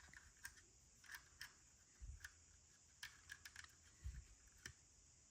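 Faint, irregular small clicks and taps of plastic building bricks being handled and pressed together, with a few soft low bumps.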